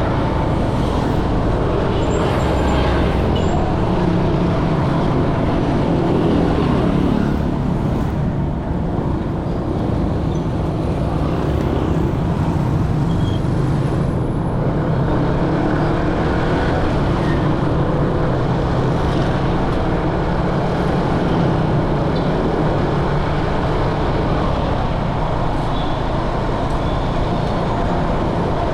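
Steady engine and road noise of motorcycles and scooters in dense street traffic, heard from a moving motorcycle.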